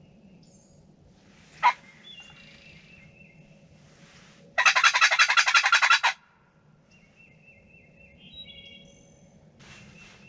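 Songbirds chirping around an open field, with a sharp snap about two seconds in. In the middle comes a loud, rapid rattle of about ten pulses a second that lasts a second and a half and then stops suddenly.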